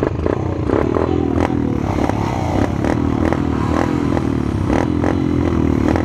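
Small minibike engine running with a wavering pitch, and repeated sharp clicks clattering over it.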